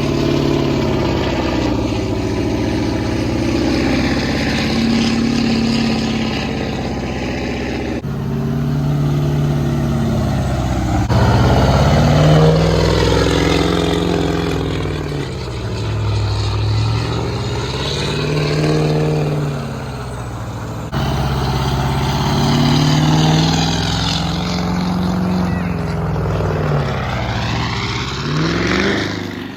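Vehicle engine revving up and down over and over, in several clips cut together.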